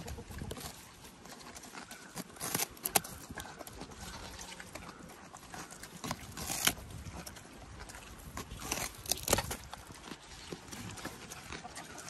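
Mini pigs and a goat eating pumpkin and shuffling about: irregular crunches and knocks, louder a few times, around three, six and a half and nine seconds in.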